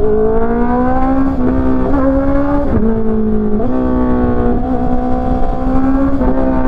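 Honda CB650R inline-four engine with an aftermarket exhaust, pulling under acceleration: its pitch climbs, drops back sharply at gear changes, and climbs again several times, with wind rushing past.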